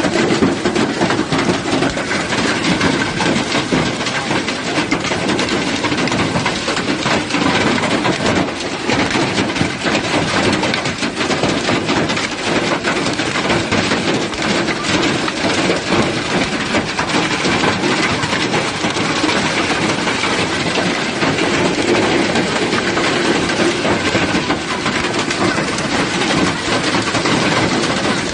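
Heavy hail pelting down: a dense, unbroken clatter of countless hailstone impacts that holds steady throughout.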